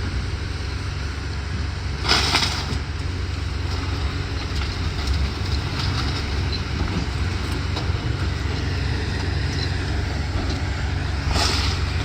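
Steady low engine rumble, with two short bursts of noise, about two seconds in and again near the end.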